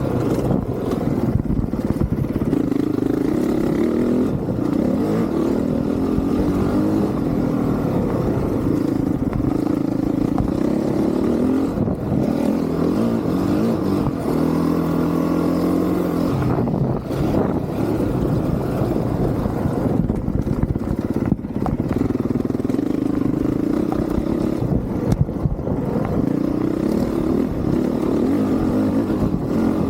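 Honda CRF450R dirt bike's single-cylinder four-stroke engine running under hard riding, its pitch climbing and dropping again and again as the throttle is opened and closed.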